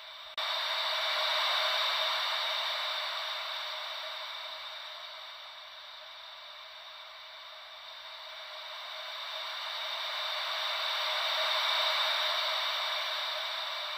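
Ocean-wave white noise: a hissy wash with no low rumble, swelling and fading slowly, with two crests about ten seconds apart. It dips briefly at the very start and cuts back in suddenly.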